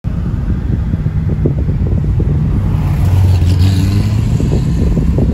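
Car engine running with a steady low hum that swells briefly about three seconds in.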